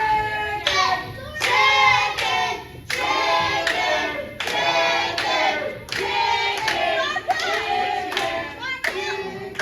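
Children singing in long, wavering held notes, with some hand clapping.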